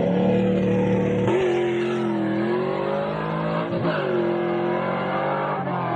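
Car engine running at a lumpy idle, its pitch stepping up about a second in and swinging up and back down again near the middle, as the throttle is blipped.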